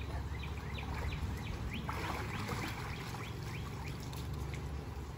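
A bird singing a long run of short descending chirps, about three a second, over a steady low background rumble. About two seconds in, water splashes and streams as a swimmer climbs out of the pool up the ladder.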